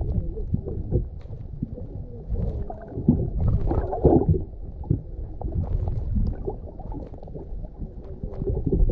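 Low, irregular rumbling of wind and water noise around a small fishing boat at sea, with uneven knocks.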